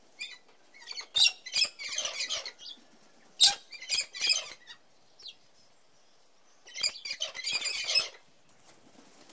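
Blue-and-yellow macaw calling: two bouts of short, harsh squawks with a pause of about two seconds between them.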